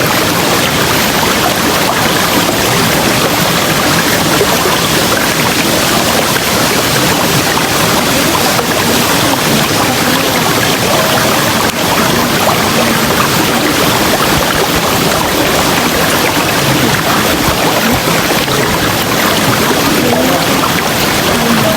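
River water rushing and babbling over rocks, a steady, loud, unbroken flow.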